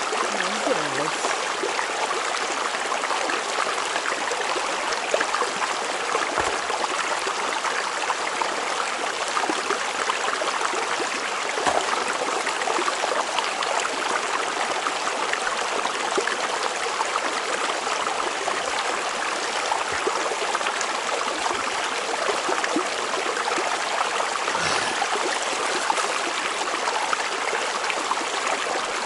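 Small river running: a steady, even rush of flowing water.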